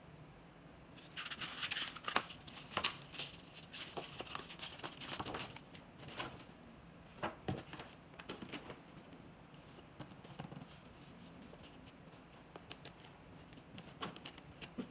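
Packaging being handled during an unboxing: paper and wrapping rustling, crinkling and tearing, busiest for the first several seconds, then scattered taps and handling clicks.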